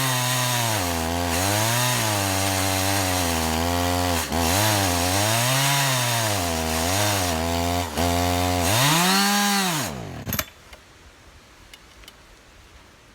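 Holzfforma G372xp two-stroke chainsaw ripping a log lengthwise in an Alaskan mill, its engine speed rising and sagging as it bogs under the cut. About ten seconds in it revs up once more, fades and dies: the fuel tank has run dry.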